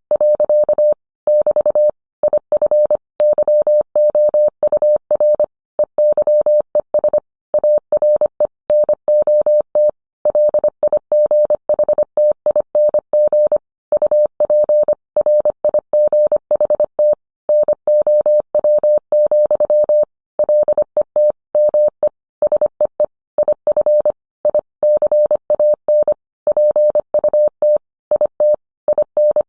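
Morse code sent as a single pure tone, keyed on and off in a quick, continuous run of short and long marks (dots and dashes) separated by brief gaps.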